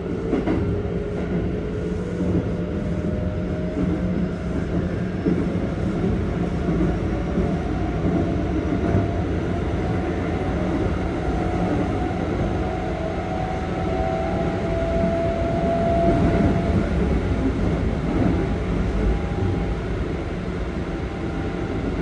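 Keikyu 1500 series train with a Toyo GTO-VVVF inverter drive, heard from inside the passenger car: the traction motors' inverter whine climbs slowly in pitch as the train gathers speed, over a steady rumble of wheels on rail.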